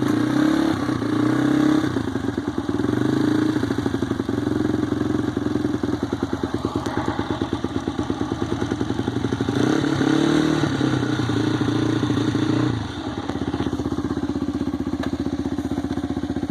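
Honda CRF150F four-stroke single-cylinder dirt bike engine running cold, just kick-started on choke, its revs rising and falling a few times. About thirteen seconds in the revs drop and it settles into a lower, steady idle.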